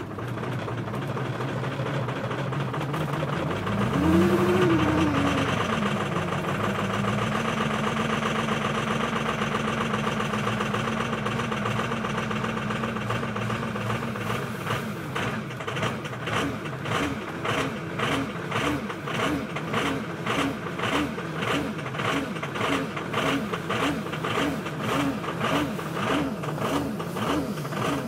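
Ford Power Stroke diesel engine cold-starting at about −36 °C: it catches and revs up and back down about four seconds in, then idles steadily. From about halfway through, the idle turns uneven, with a regular pulsing beat about once a second.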